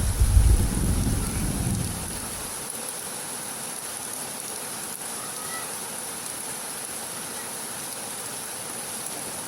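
Heavy rain falling steadily. A low thunder rumble fades away over the first two seconds, leaving only the even hiss of the rain.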